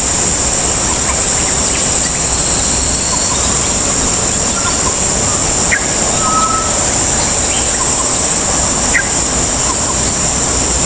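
Steady outdoor background noise with a continuous high-pitched hum over it, and a few faint short bird chirps scattered through.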